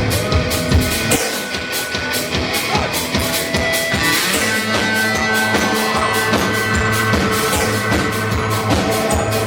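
Live rock band playing an instrumental passage: a drum kit keeps a steady beat under held guitar and bass notes, with no singing yet.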